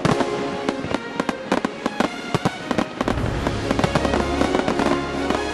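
Fireworks going off: a rapid run of aerial shell bursts and crackling bangs, densest in the first few seconds, with music playing underneath.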